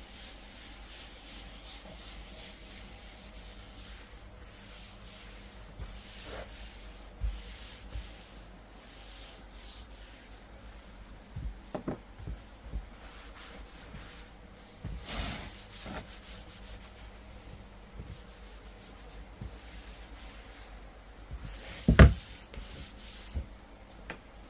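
Hand rubbing strokes on a wooden cutting board, with a few wooden knocks as the board is moved and one sharp, loud knock near the end.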